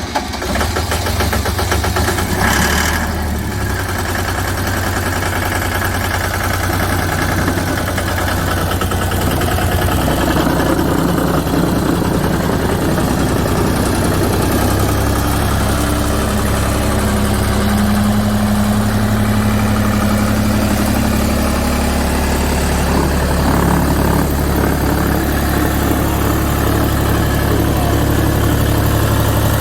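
Demag DF45C crawler asphalt paver's diesel engine running steadily. A brief rush of noise comes about three seconds in, and a steady higher hum joins for a few seconds past the middle.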